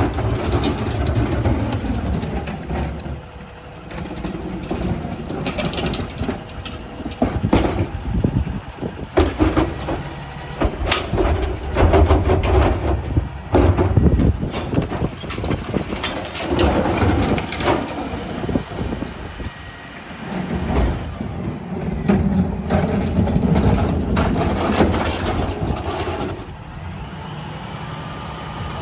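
Mack rear-loader garbage truck working: its diesel engine runs and rises and falls in strength, with many sharp clanks and bangs from the truck and refuse throughout.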